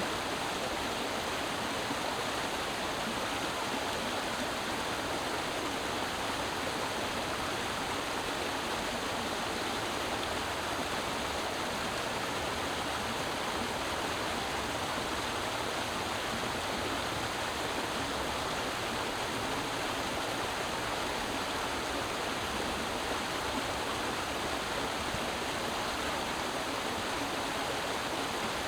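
Creek water flowing and burbling over rocks in a steady, even rush.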